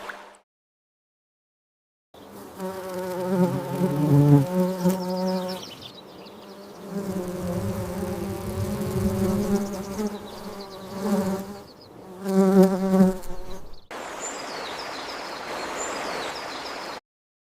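Flying insect buzzing close by: a wavering hum that rises and falls in pitch and loudness, fading out briefly a couple of times. In the last few seconds it gives way to an even hiss with a few faint high chirps.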